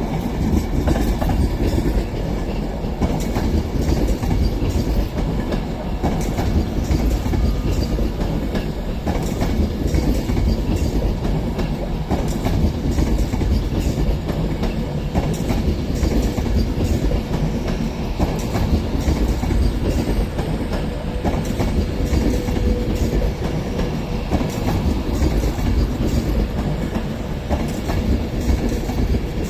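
Train running through the station, its wheels clattering steadily over rail joints above a continuous low rumble.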